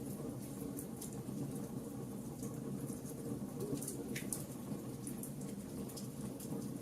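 Wood fire crackling in a fireplace: a steady low flame noise with irregular sharp crackles and pops scattered through it.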